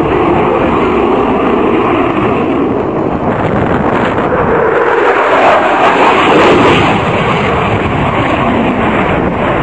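Jet aircraft engine noise, a steady roar that swells to its loudest about halfway through as the aircraft passes.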